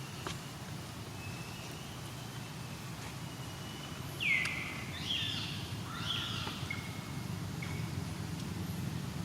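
High-pitched animal calls: a sharp cry that falls quickly in pitch about four seconds in, followed by a few shorter squeals and thin whistly notes over the next two seconds, over a steady low hum.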